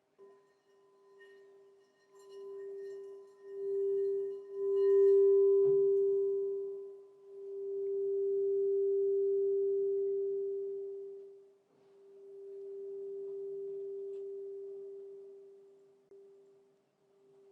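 Crystal singing bowl ringing on one steady pitch, its tone swelling and fading in slow waves of a few seconds each. There is a soft knock about a third of the way in.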